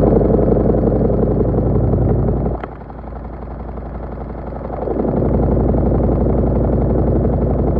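Washing machine motor running in surges: loud for about two and a half seconds, dropping away for about two and a half seconds, then loud again before falling off near the end.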